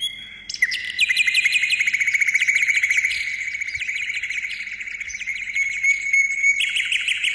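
A songbird singing a fast trill of repeated chirps, about ten notes a second, held at a steady pitch for several seconds.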